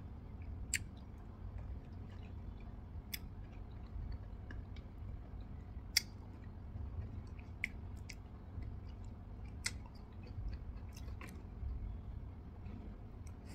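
A person chewing a fresh cherry close to the microphone: wet mouth and chewing sounds with sharp little clicks every second or two, over a low steady hum.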